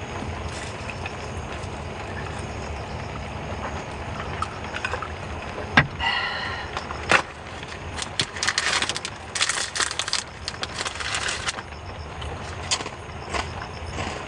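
Steady rain noise, with two sharp clicks and a brief squeak near the middle, then about three seconds of rapid clicking and clattering, as of small objects being handled.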